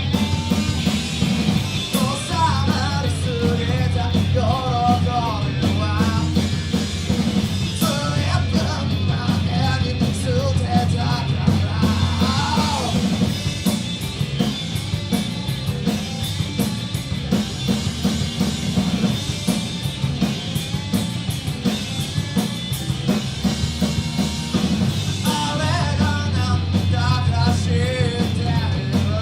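A live rock band playing a fast garage-rock cover: drum kit, distorted electric guitars and bass driving steadily. A singer's voice comes in over it for stretches in the first half and again near the end.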